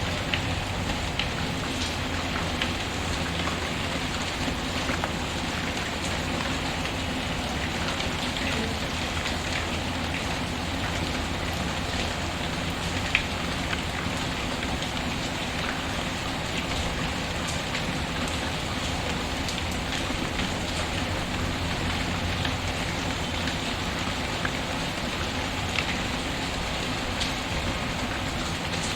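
Steady rain pattering, mixed with the scattered pops and crackles of a fireplace fire, one sharper pop about midway.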